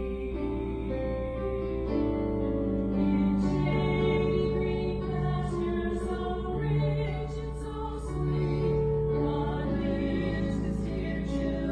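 Slow church music with singing: long, held notes over a steady low accompaniment.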